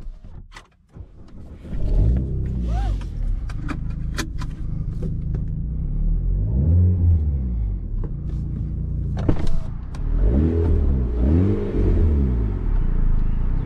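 Alpine A110's 1.8-litre turbocharged four-cylinder engine, heard from inside the cabin, starting up about two seconds in and then idling. In the second half the revs rise and fall in a few quick blips, and several sharp clicks come in between.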